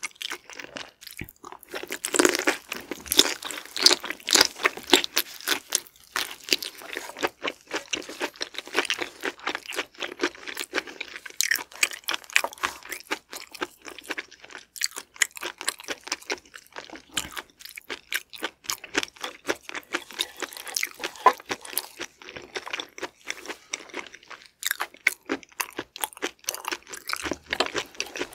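Close-miked chewing of raw shrimp: rapid, wet, crunchy mouth clicks that go on without pause.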